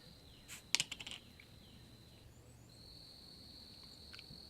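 Crickets trilling steadily on one high note, breaking off briefly just after two seconds. A few sharp clicks and rustles come about a second in.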